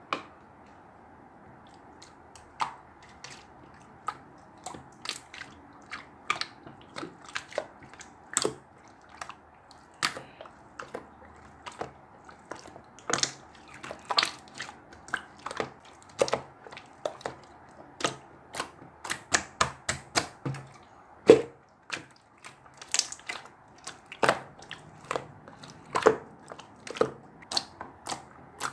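Galaxy slime being squeezed and worked by hand, giving irregular sharp clicks and pops as trapped air bursts, a few per second and most frequent in the middle, over a faint steady hiss.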